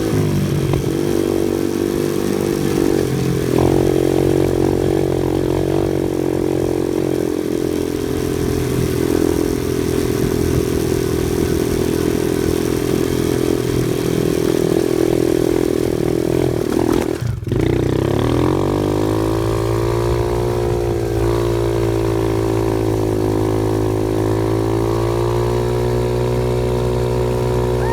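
Off-road vehicle engine running steadily while driving on a dirt trail. About 17 seconds in the sound cuts out for an instant, then comes back with its pitch rising and settling, as when a gear is changed and the engine pulls again.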